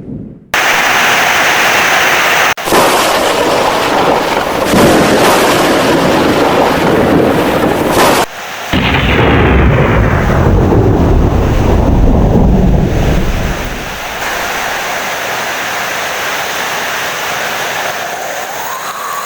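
Heavy rain with loud rolling thunder that cuts in abruptly after a brief gap at the start and breaks off sharply twice. About two-thirds of the way through, the thunder dies away, leaving a quieter, steady rain hiss.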